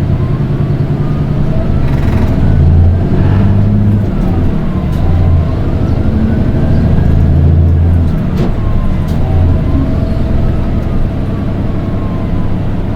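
Nissan Diesel Space Runner RM (PDG-RM820GAN) bus engine heard from inside the cabin, pulling through its gears under a low diesel drone. A thin high-pitched whine rises and falls with engine speed. It is the unusual shrill engine note that, of the four RM820s in the fleet, only this bus makes.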